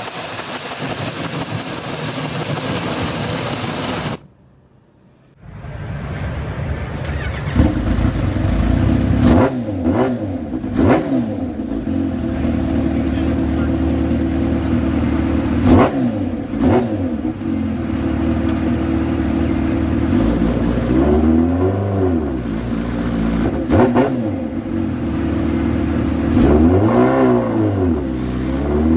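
Motorcycle engine running, broken by a brief quiet gap about four seconds in. It then settles to a steady idle, and the throttle is blipped several times so the revs rise and fall sharply.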